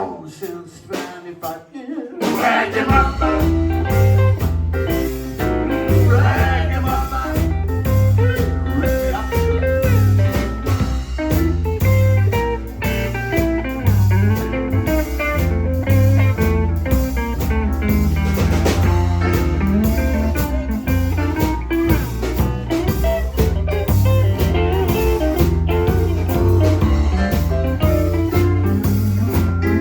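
Live blues band playing an instrumental passage with guitar and drums. The full band comes in about two and a half seconds in, after a brief quieter moment.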